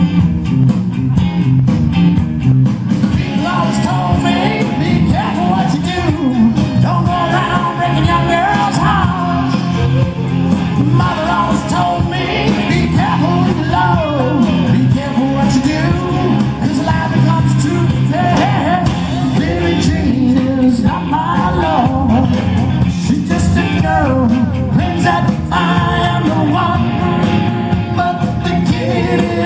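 Live rock band playing, with a lead singer over a heavy bass line and drums.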